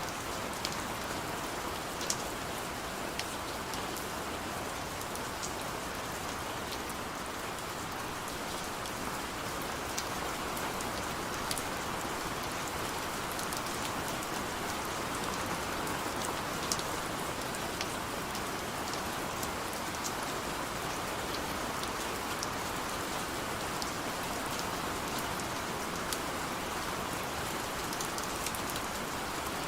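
Heavy rain falling steadily, a constant hiss with scattered sharp drop ticks.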